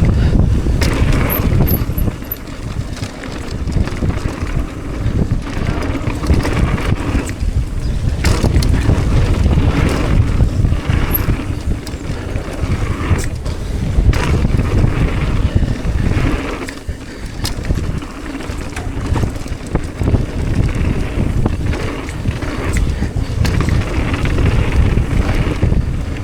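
Wind buffeting a mountain biker's helmet or chest camera microphone as a rumble while riding down a dirt trail, with frequent knocks and rattles from the bike over the rough ground.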